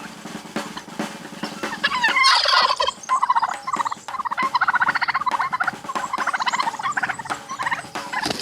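A bird calling in long runs of rapid, rattling pulses, starting about two seconds in and repeating in several bursts.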